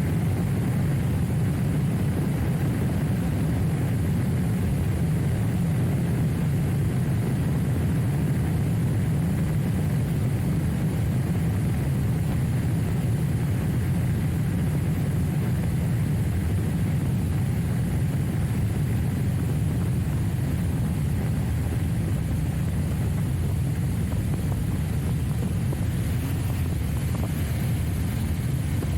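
Trial motorcycle running steadily while being ridden: a constant low drone with no revving rises or falls.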